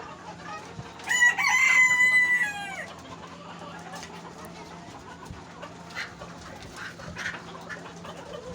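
Rooster crowing once, a single call of about a second and a half that holds its pitch and then falls away at the end. A few faint short sounds follow over a steady low hum.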